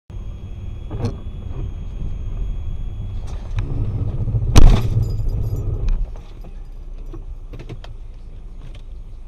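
Car road and engine rumble with small rattles and clicks, broken about halfway through by one very loud bang of a collision.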